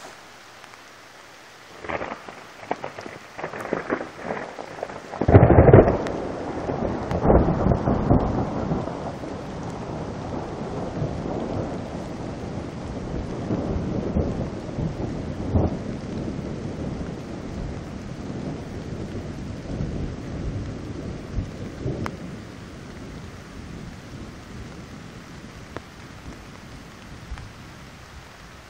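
Thunderstorm with steady rain: thunder crackles from about two seconds in, breaks into its loudest clap about five seconds in, then rumbles on for many seconds and slowly fades while the rain keeps falling.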